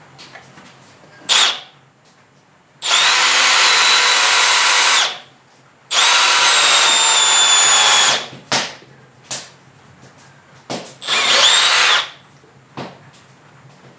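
Electric drill running in bursts: a brief blip, then two runs of about two seconds each and a shorter one of about a second, its whine sagging slightly under load in the second run.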